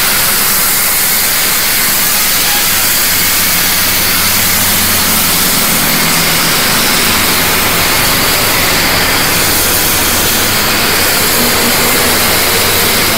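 Pressure washer running and spraying at high pressure: a steady hiss of spray over a low motor hum, with no break.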